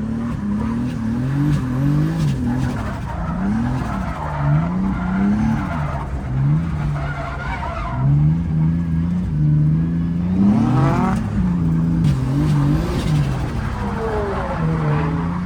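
Turbocharged BMW E30 drift car's engine revving hard, its pitch climbing and dropping again and again as the throttle is worked, with the tyres skidding under it.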